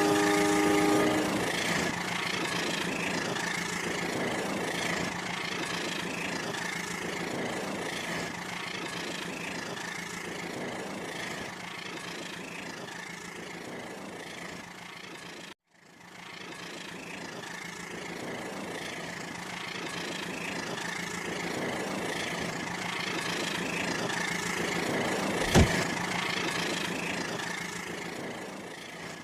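Battery-powered remote-control toy train running on its track: a steady electric-motor whir with a soft rhythmic clatter about once a second. A multi-tone horn sounds at the start and stops about a second in. The sound drops out for a moment about halfway, and a single sharp click comes near the end.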